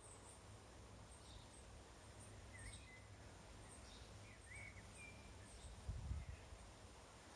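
Faint birds chirping: scattered short high chirps and a few brief whistled notes, over a low rumble, with a brief low bump about six seconds in.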